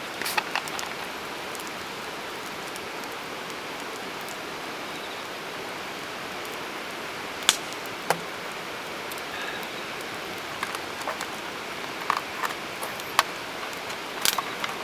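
Campfire crackling: scattered sharp pops and snaps, a dozen or so, the loudest about halfway through and near the end, over a steady hiss.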